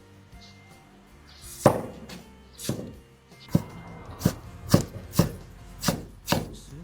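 Kitchen knife chopping on a cutting board: about eight separate, sharp strikes at an uneven pace of roughly one or two a second, starting about a second and a half in.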